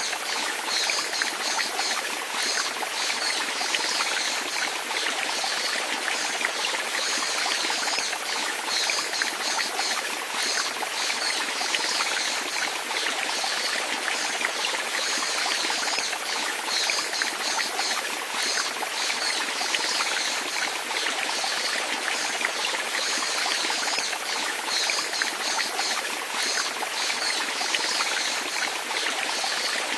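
Running water flowing steadily, with a constant trickling and splashing.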